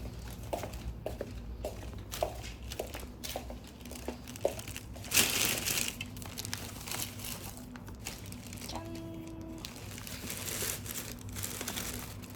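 Crinkling and rustling handling noise with many small clicks, louder for a moment about five seconds in, and a brief steady tone about nine seconds in.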